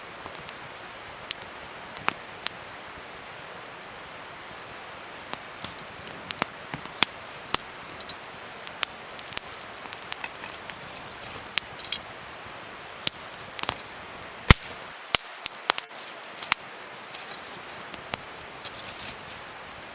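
Wood fire crackling: a steady hiss with irregular sharp pops, the loudest a little past the middle.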